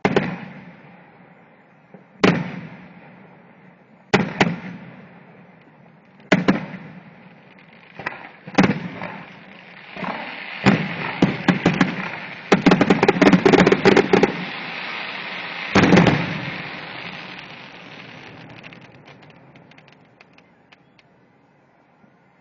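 Aerial firework shells bursting: single loud bangs about every two seconds, then a dense volley of rapid bangs over heavy crackling in the middle. One last big bang follows, and the crackling fades away.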